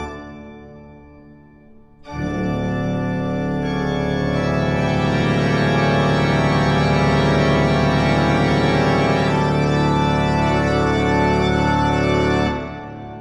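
Organ music in long held chords: one chord dies away, then about two seconds in a full chord comes in and is held steadily until it is released near the end.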